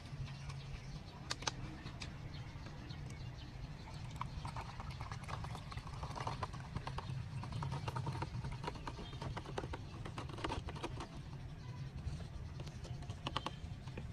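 Irregular light clicks and taps, thickest in the middle of the stretch, over a steady low hum.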